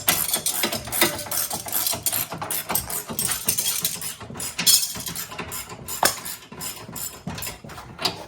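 Irregular rapid clicking and metallic clatter of hand tools, a ratchet wrench working bolts loose.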